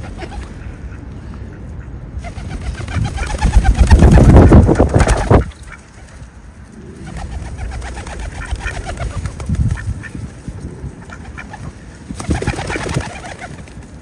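Birds calling, with a loud burst of noise lasting about two seconds, starting about three seconds in, and shorter bouts of repeated calls later on.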